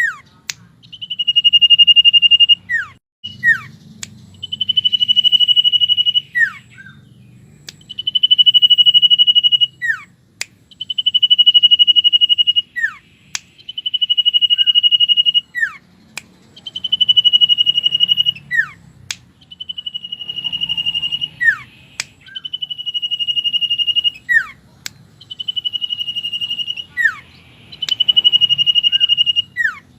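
Common iora (cipow) singing: a long, steady, high whistled note held about two seconds, then a quick downward-sliding note and a click, repeated about every three seconds. A faint low hum runs underneath.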